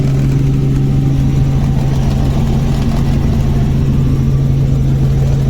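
Helicopter in flight, heard from inside the cabin: a loud, steady drone of engine and rotor with an unchanging low hum.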